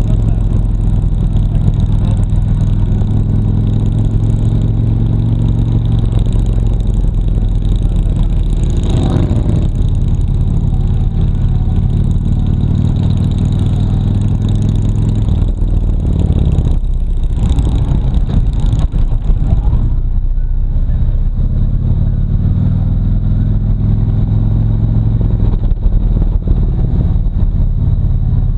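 Harley-Davidson Road Glide Ultra's V-twin engine running while the motorcycle rides along, heard from a mount on the bike: a steady, low engine note that breaks up for a couple of seconds a little past halfway, then settles back.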